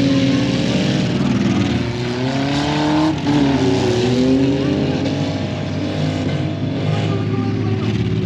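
Off-road trucks' engines revving hard, their pitch rising and falling again and again, with more than one engine heard at once.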